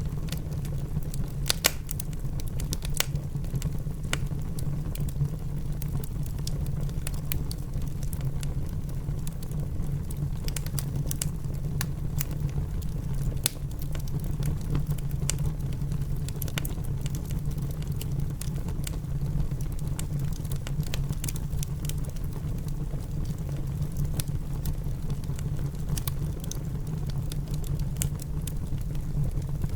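Wood fire in a fireplace crackling, with frequent sharp, irregular pops over a steady low rumble of rain.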